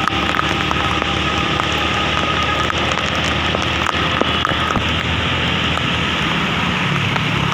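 Heavy monsoon rain falling steadily, with drops striking close by as scattered sharp ticks and a low steady hum underneath.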